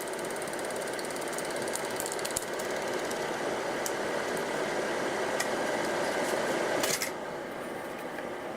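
Super 8 cine projector running, its film transport making a steady rapid clatter with scattered clicks and a sharp crackle about seven seconds in.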